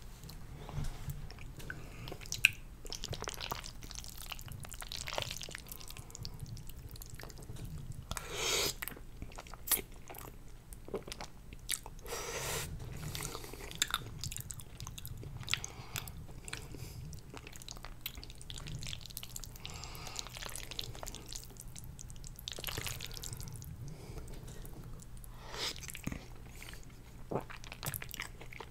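Close-miked wet chewing and slurping of fettuccine noodles in creamy chicken chili, with occasional sharp clicks of a metal fork against a glass baking dish.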